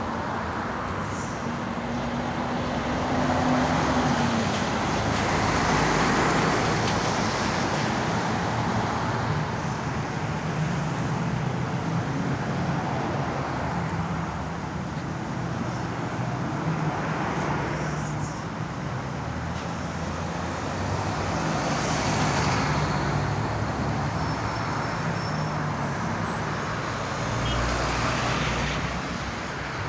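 Road traffic: a steady engine hum under the rush of passing vehicles, which swells and fades several times.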